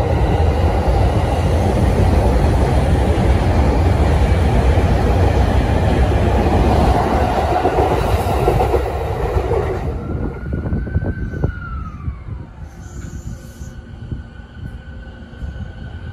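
JR East 209 series electric commuter train running past alongside the platform, a loud rolling rumble of wheels on rail. About ten seconds in it cuts to a quieter moment where a 209 series train gives a whine that falls in pitch over a couple of seconds, with a few sharp wheel clicks.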